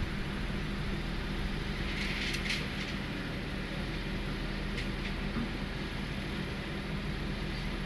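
Hydraulic excavator diesel engine running steadily, with a couple of brief, sharper noises about two seconds in and again near five seconds.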